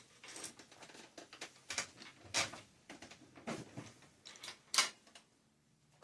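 Irregular light clicks and knocks of small metal bicycle headset parts and a headset cup press being handled, about eight over five seconds, the loudest near the end.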